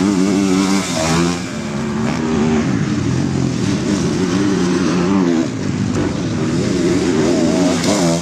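Dirt bike engines racing, revving hard with the pitch rising and falling again and again as the riders work the throttle and shift gears.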